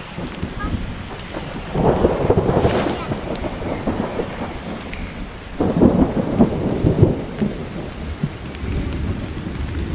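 Heavy rain falling steadily, with two rolls of thunder, the first about two seconds in and the second about six seconds in.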